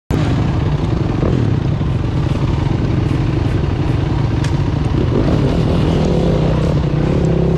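Off-road bike engine running steadily under way, its note wavering a little with the throttle; the sound cuts in abruptly at the start.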